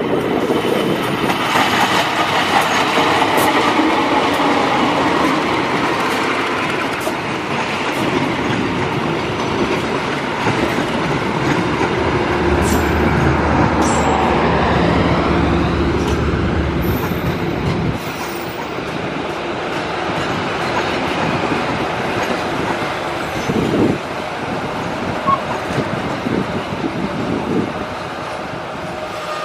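CC 201 diesel-electric locomotive hauling a passenger train past at close range. The locomotive's engine runs with a steady low hum about halfway through, then the passenger coaches roll by, their wheels clattering and knocking over the rails.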